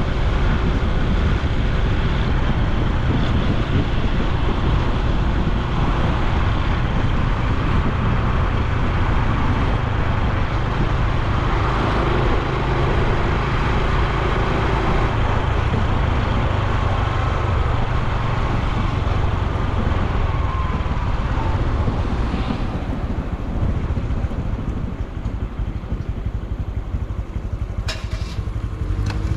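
Honda Super Cub C125's air-cooled single-cylinder four-stroke engine and exhaust while riding, mixed with wind and road noise. It eases off and gets quieter about three quarters of the way through.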